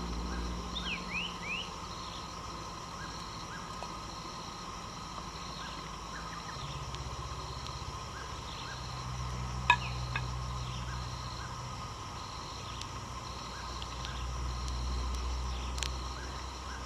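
Low, distant engine drone from a palm oil mill, under a steady chorus of insects and a few bird chirps about a second in. A single sharp click about ten seconds in, and a fainter one near the end.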